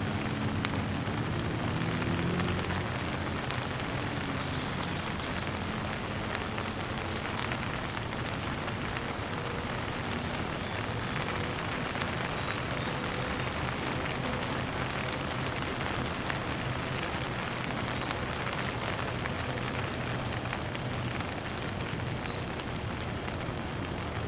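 Steady rain falling, a continuous hiss dotted with the patter of individual drops. A faint low drone sits under it for the first few seconds.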